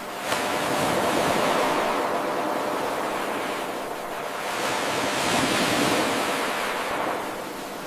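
Ocean surf washing in and drawing back: a hiss of waves that rises suddenly about a third of a second in, swells twice and fades toward the end. The abrupt rise is where the 8-second wave recording loops back to its start.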